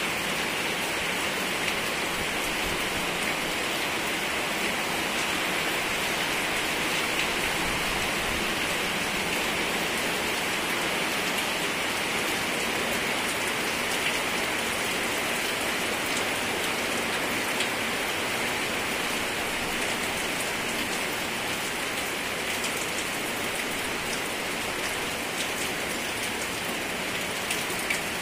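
Steady rain falling on banana leaves and coconut palm fronds, an even hiss with a few sharper ticks of single drops, more of them near the end.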